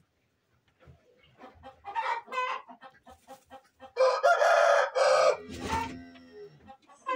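Chickens clucking in short scattered calls, then a rooster crows once, loudly, about four seconds in.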